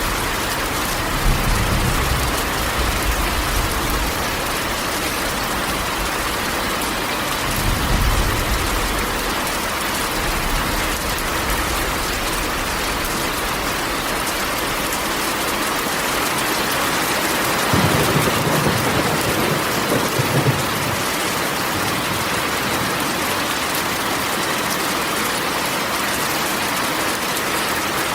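Steady rain drumming on a corrugated metal roof, with low rolls of thunder rumbling in about a second in, around eight seconds in, and again for a few seconds past the middle.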